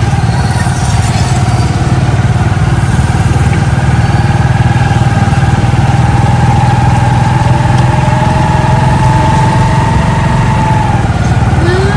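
Steady engine and road noise of a moving vehicle, with a thin steady whine above it that fades out near the end.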